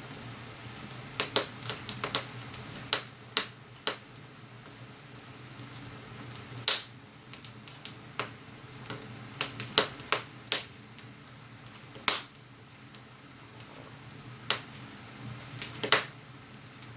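Wood fire crackling in a wood-burning stove: irregular sharp pops, some single and some in quick clusters, over a faint steady hum.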